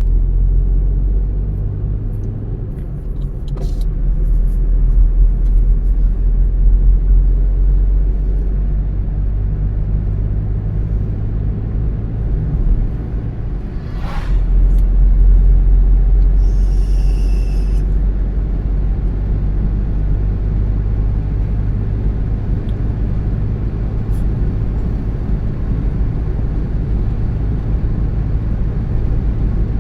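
A car driving along a road: a steady low rumble of engine and tyres, swelling and easing a little. A few faint clicks and a brief high hiss come about halfway through.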